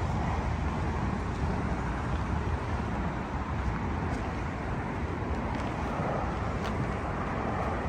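Steady rush of highway traffic.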